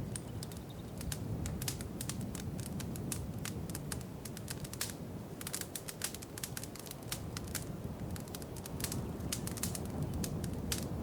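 Wood fire crackling in a fireplace: dense, irregular sharp pops and snaps over a steady low rumble of the flames.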